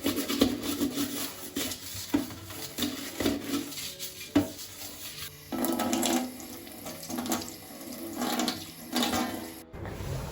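Water running from a kitchen tap and splashing in a sink, coming and going unevenly as something is rinsed under it.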